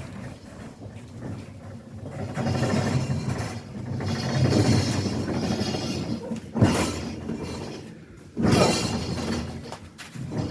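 A heavy commercial refrigerator rolling on its casters across the floor, rattling and rumbling, with a sharp knock about six and a half seconds in and another loud burst of rattling about two seconds later.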